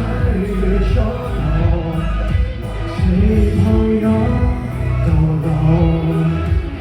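Live band music with a sung vocal line over held bass notes.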